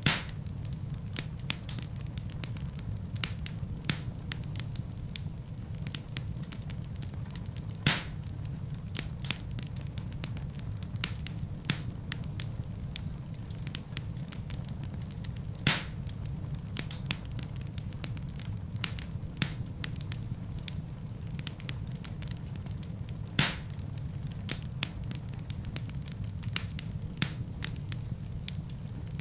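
Wood fire crackling in a fireplace: a steady low rumble of flames with frequent small crackles and a louder pop about every eight seconds.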